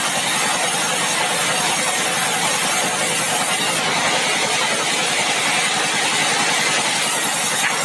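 Sawmill machinery running steadily: a loud, even mechanical noise with no breaks.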